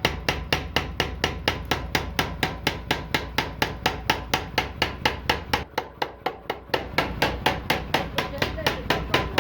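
Hammer forging a rambi blade, striking steel in rapid, even blows about four to five a second over a steady low hum, briefly quieter a little past the middle.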